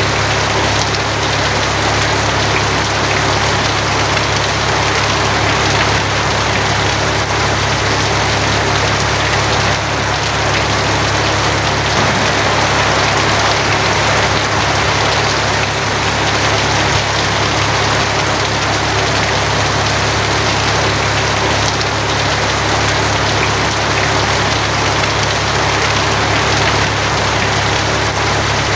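Steady heavy rain drumming on a tin roof as an even hiss, with a constant low rumble underneath. It does not change.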